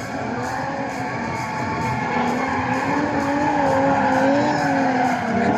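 A drifting car's engine note wavering up and down as it slides under power, with tyre squeal.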